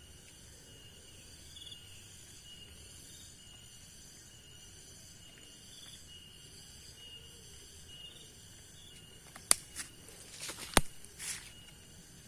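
Chorus of insects such as crickets or cicadas, a steady high pulsing trill. Near the end come a few sharp clicks or knocks, the two loudest about a second apart.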